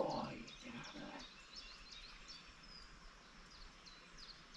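A small bird calling repeatedly with short, high chirps that slide downward, several a second, over faint outdoor background noise. A brief, louder, lower sound comes in the first second.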